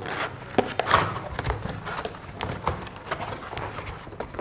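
Irregular light clicks and knocks with some rustling as the parts and packing of a washing machine trolley are handled.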